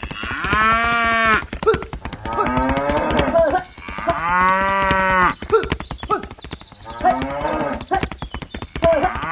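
Cattle mooing: about four long moos of a second or so each, one after another, with a rapid patter of short clicks underneath.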